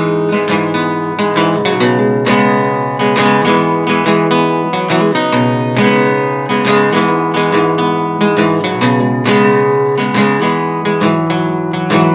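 Acoustic guitar strummed steadily in an instrumental break of a folk song, without singing.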